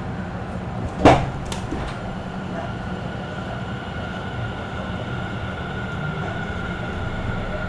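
Running sound inside a Tobu commuter train car: a steady rumble from wheels and motors with a steady whine. A sharp clack comes about a second in, followed by two lighter clicks.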